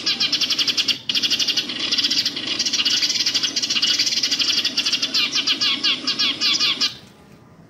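Many small birds chirping rapidly and densely, several high chirps a second, over a low hum. It cuts off suddenly about seven seconds in.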